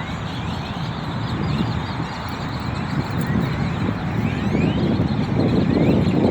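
A large flock of birds calling, many short rising chirps overlapping one another, over a heavy low rumble that grows a little toward the end.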